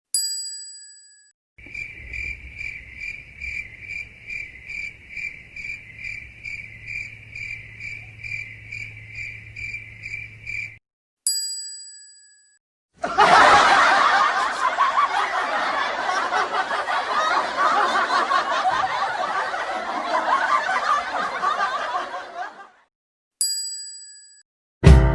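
A string of meme sound effects, each one marked off by a bright bell ding. Between the dings there is first a high chirp repeating about two and a half times a second for around nine seconds, then about ten seconds of dense noise.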